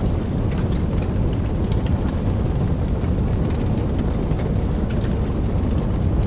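Wood campfire burning: a steady low rumble of flames with frequent small, soft crackles and pops.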